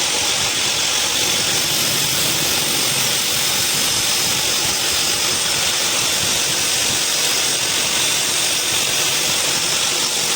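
Steady, loud hiss of workshop machinery running continuously, with faint high tones above it and no change in level.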